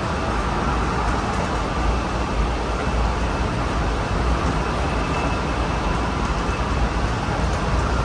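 Steady running noise inside a Honolulu Skyline metro car under way: a low rumble of wheels on rail, with a faint steady high whine over it.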